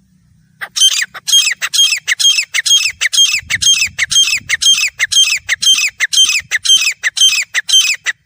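Grey francolin calling: a loud, shrill run of short, falling notes repeated about three times a second, starting about a second in.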